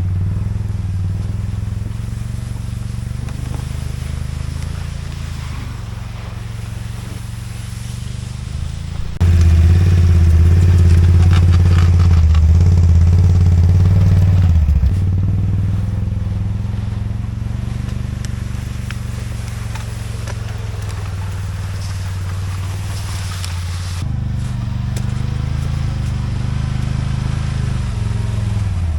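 An engine running steadily with a deep, low hum. The level jumps up abruptly about a third of the way in and changes again later, as at edits between shots.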